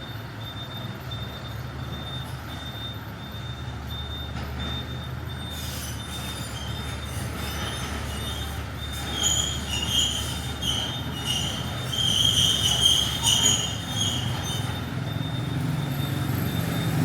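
Street traffic: a motor vehicle's engine running steadily, with a run of high-pitched squeals from about halfway in until near the end.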